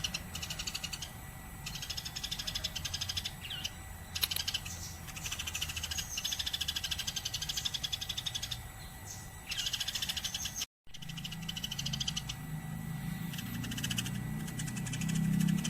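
Eurasian tree sparrows chirping nonstop in rapid chattering runs, cut off for a split second about two-thirds of the way through.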